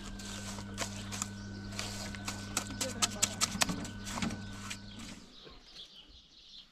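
A steady low hum that cuts off about five seconds in, with a run of sharp clicks and knocks over it.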